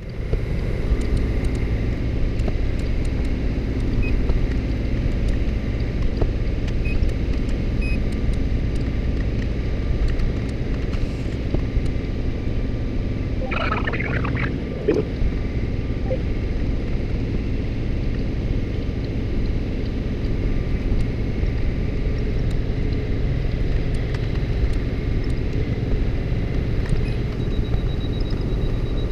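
Steady low mechanical rumble of a de-icing truck's engine and pump working, with a short higher-pitched sound about halfway through.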